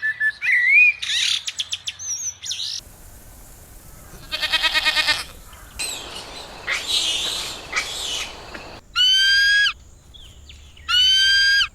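A string of different animal calls played one after another: quick chirps and warbles, then a fast pulsing call, then rougher calls, and finally two identical long, high calls that rise and then hold.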